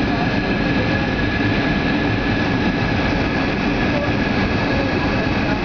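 Boeing 757-200 airliner on final approach, heard from inside the cabin: a steady drone of engines and airflow with a steady high whine over it.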